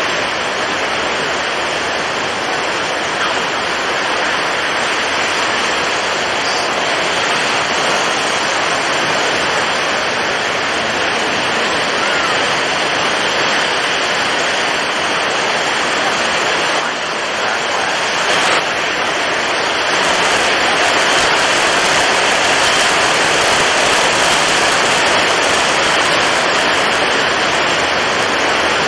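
Violent storm at sea: strong wind and heavy waves making one dense, steady wash of noise, which turns a little louder and hissier about twenty seconds in.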